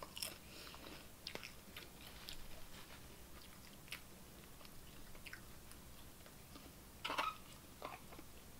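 Faint close-up chewing of nacho chips topped with chili: soft crunches and small mouth clicks, with one louder, noisier sound about seven seconds in.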